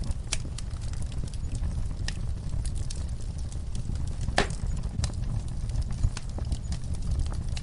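Log fire in a fireplace crackling and popping irregularly over a steady low rumble of the flames, with one louder pop a bit over four seconds in.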